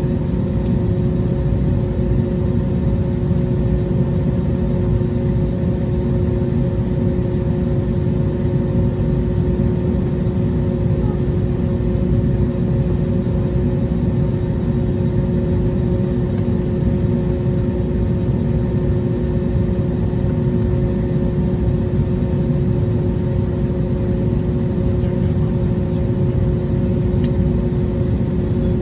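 Airbus A321neo jet engines running steadily: a loud, even low rumble with a steady hum tone over it and no change in pitch or level.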